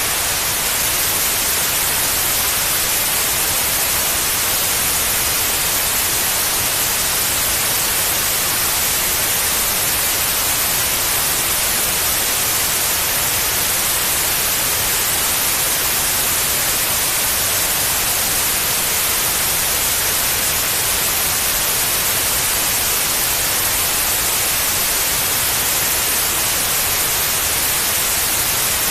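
Steady white noise, an even hiss across all pitches, brightest in the highs, unchanging throughout: a white-noise track played to soothe a baby to sleep.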